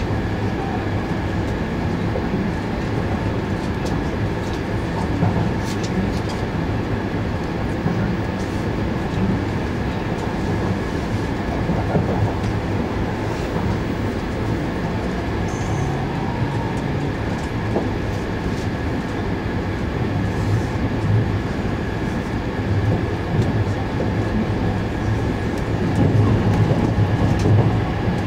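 Inside the passenger cabin of an E2-series Shinkansen, a steady low running noise from the train with light rail clatter, a little louder near the end.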